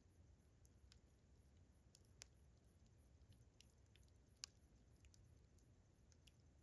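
Campfire crackling softly: irregular small pops and snaps, one sharper pop about two seconds in and the loudest about four and a half seconds in. Crickets chirp in a fast, steady, high-pitched pulse behind it.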